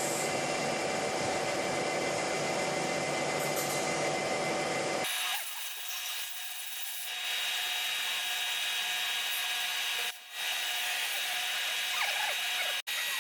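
Metalworking machine cutting across the camshaft bearing bed surface of an aluminium cylinder head to level it, running steadily with a high whine over a grinding noise. About five seconds in, the low rumble drops away and the high whine carries on.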